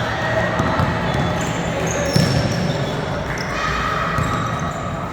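Basketball bouncing on a hardwood court in a gym, amid steady crowd chatter and short high squeaks.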